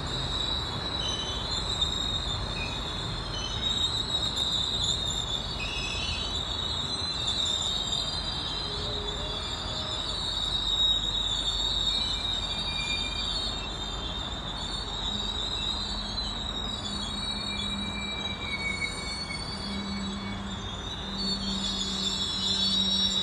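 GO Transit passenger train rolling past, its wheels squealing steadily in high shrill tones over the rumble of the cars. A low steady drone joins in about two-thirds of the way through.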